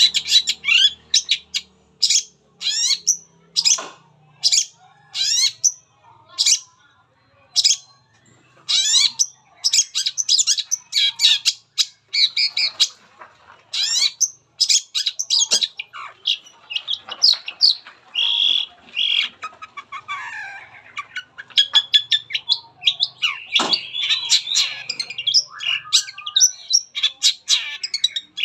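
Long-tailed shrike (cendet) singing a rapid, varied song of high chirps and sweeping notes in short bursts, with harsher squawking notes about three-quarters of the way through. Its song is packed with phrases mimicked from other birds ('full materi').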